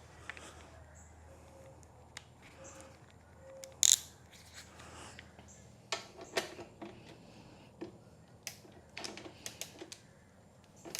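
Scattered clicks, clanks and knocks of metal hand tools being handled at a motorcycle's exhaust bolts, with one sharp, loud clack about four seconds in and a run of knocks from about six seconds on.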